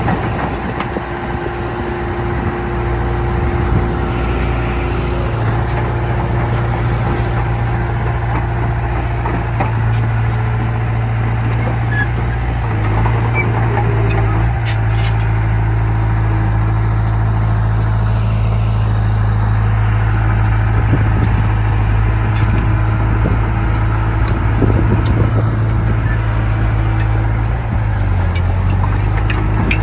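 Diesel engine of a Komatsu D31P crawler bulldozer running steadily under work, its engine note shifting up and down a few times, with a few short clanks partway through.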